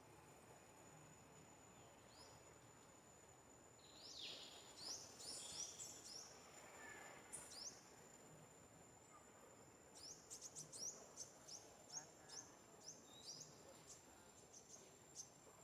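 Faint forest ambience: quick, high bird chirps in two spells, starting about four seconds in and again from about ten seconds, over a steady high-pitched insect drone.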